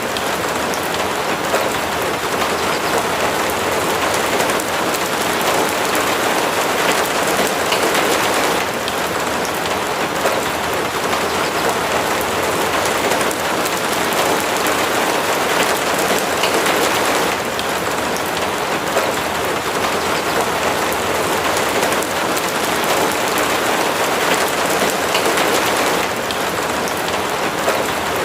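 Steady heavy rain falling, a dense, even patter of drops with no break.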